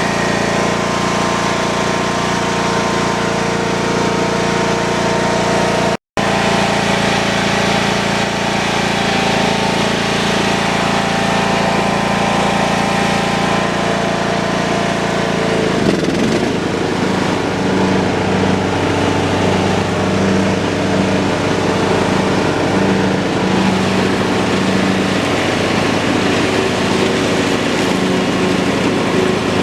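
John Deere lawn tractor's engine running steadily. The sound cuts out for an instant about six seconds in, and the engine note drops and changes about halfway through.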